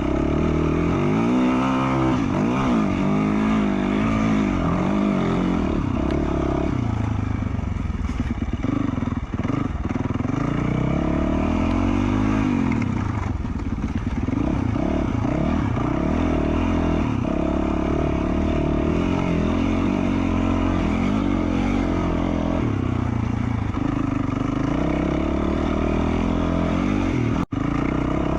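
2020 Yamaha YZ450F's single-cylinder four-stroke engine, fitted with an FMF Q4 slip-on exhaust, revving up and down over and over as the bike is ridden. The sound cuts out for an instant near the end.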